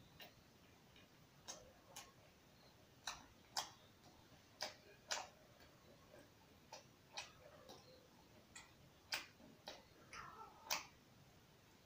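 A person chewing a rice and curry meal with their mouth open, making irregular mouth clicks and smacks about one or two a second, a few of them louder.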